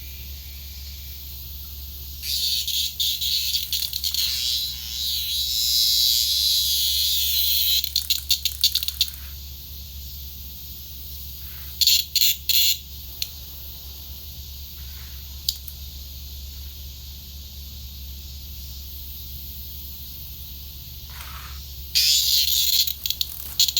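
A cicada buzzing in loud, harsh stretches: a long buzz from about two seconds in that breaks into stuttering pulses, a few short bursts in the middle, and another buzz near the end. This is the cicada's distress buzz as a cat plays with it.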